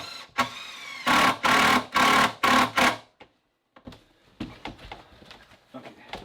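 A small electric motor runs up and then in four short loud bursts about half a second apart, stopping after about three seconds. Light clicks and taps follow.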